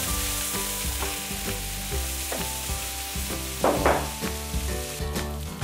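Kimchi sizzling steadily as it fries in a hot pan, stirred and turned with tongs.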